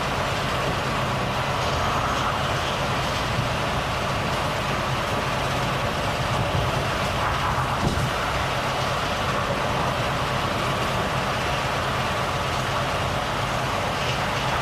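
Volvo FH truck driving at a steady speed: a steady low engine hum under even road and wind noise, with one brief click about eight seconds in.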